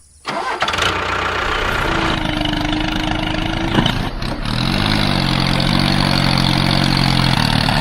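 A small engine starting and running steadily, with a brief rise in pitch about five seconds in before it settles.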